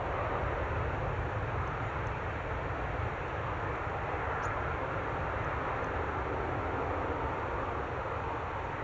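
Jet airliner's engines, a steady noise that slowly grows fainter.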